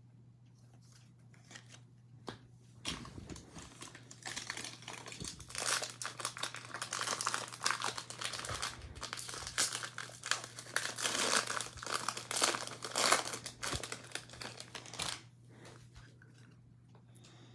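Foil wrapper of a Topps baseball card pack being torn open and crinkled: a dense run of crackling and rustling that starts a few seconds in and stops a couple of seconds before the end. A faint steady low hum runs underneath.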